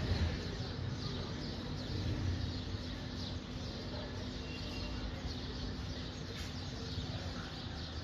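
Small birds chirping, many short high notes in quick succession, over a steady low rumble.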